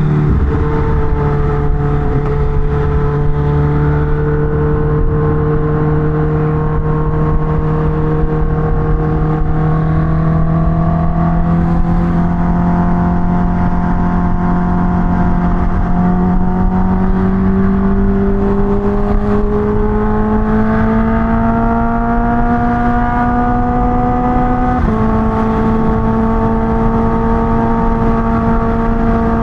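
Kawasaki Ninja H2 motorcycle engine under way. Its pitch climbs slowly and steadily as the bike gathers speed in one gear, then drops suddenly about 25 seconds in with an upshift and holds steady after.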